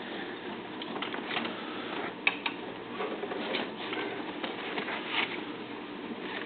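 Scattered light clicks and rustling of someone shifting and handling things in a small vehicle cab, with a sharper click a little past two seconds in.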